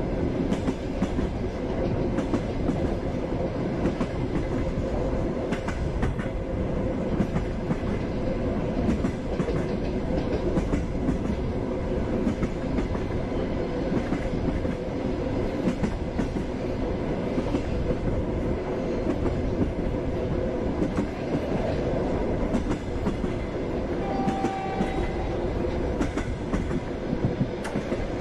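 Passenger train running steadily, its wheels clicking over the rail joints (clickety-clack) over a continuous rumble. A brief steady tone sounds once near the end.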